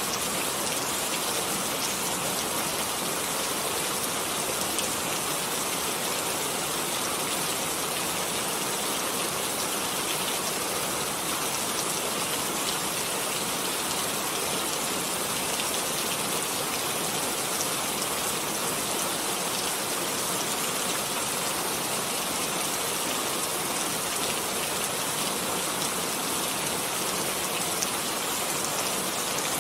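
Steady rain falling, a dense even patter of raindrops on surfaces with no change in intensity.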